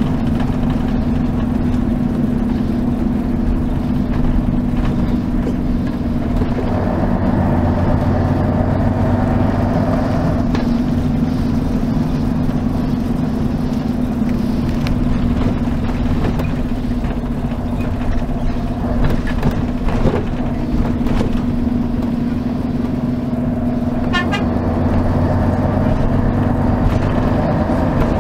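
Mercedes-Benz O 403 SHD coach's V8 diesel engine heard from inside the bus, running steadily under way, its pitch rising and falling gently as the revs change. A short run of rapid high ticks comes about three quarters of the way through.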